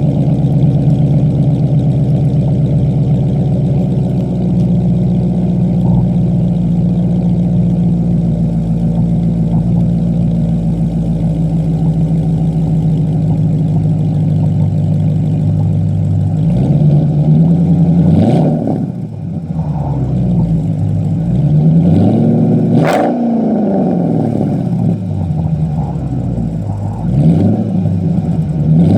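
Jeep Grand Cherokee 5.7 Hemi V8 through a resonator-deleted exhaust with Cherry Bomb glasspack mufflers, running steadily for about sixteen seconds and then revved up and down several times. Three sharp cracks come near the tops of the revs.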